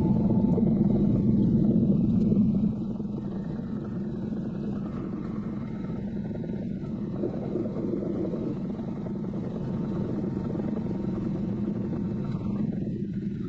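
Heavy diesel engine running steadily under load, louder for the first couple of seconds and then settling to a lower, even level.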